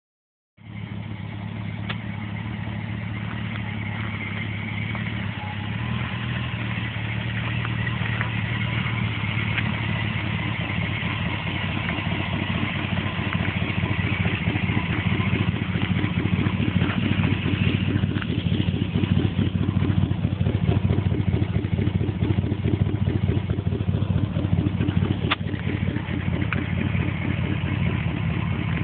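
1980 Corvette's tuned-port-injected V8 idling steadily through sidepipes, the exhaust note gradually growing louder.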